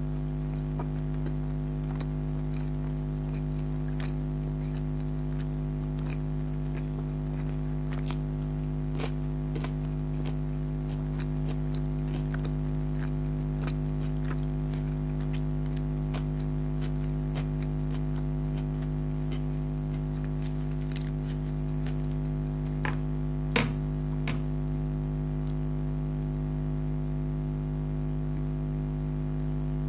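A person chewing and biting food, with small wet clicks scattered throughout and one louder snap a little past two-thirds of the way in, over a steady low hum.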